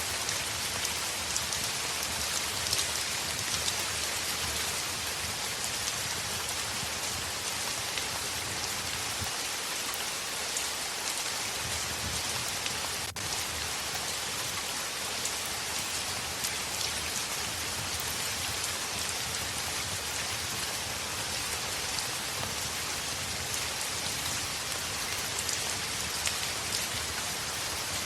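Heavy rain falling steadily on window glass: a dense, even hiss with many small scattered drop ticks.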